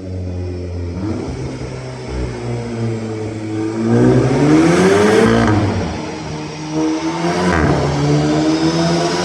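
VW Golf GTI 7.5's turbocharged 2.0-litre four-cylinder revving on a dyno: the engine note climbs, then falls sharply with a short exhaust 'fart' at each shift, three times.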